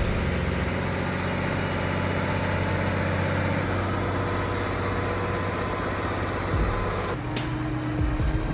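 Heavy truck engine running steadily, its note shifting about seven seconds in, with a short sharp click at the same moment.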